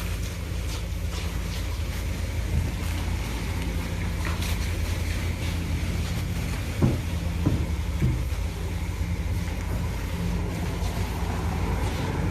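Steady low motor hum with a hiss over it, typical of self-service car wash equipment running, with a few short squeaks about two-thirds of the way through.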